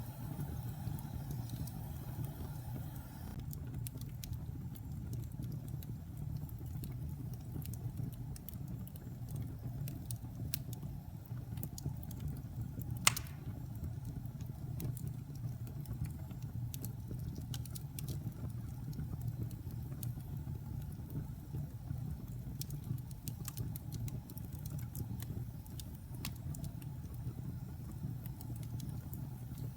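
Wood fire burning in a fireplace: a steady low rumble of flames with scattered crackles and one sharp, loud pop near the middle.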